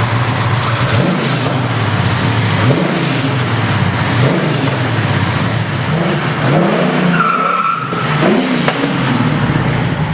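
1969 Camaro's big-block V8 running hard and revving up and back down about five times. A short high squeal sounds about seven seconds in.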